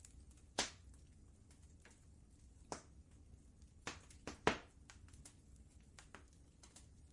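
Wood fire crackling in a fireplace: irregular sharp pops and snaps, the loudest about half a second in and a cluster around four to four and a half seconds, over a low steady rumble.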